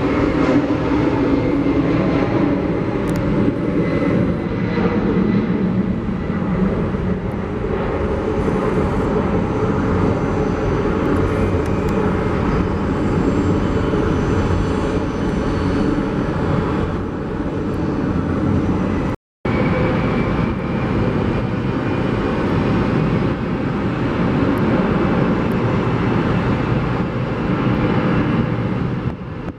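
Airliner engine noise, a steady loud rush, with a brief dead silence about two-thirds of the way through.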